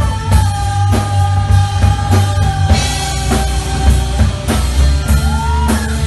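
Live rock band playing: a drum kit beats out a steady rhythm over a heavy bass, under a long held lead note that bends up in pitch near the end.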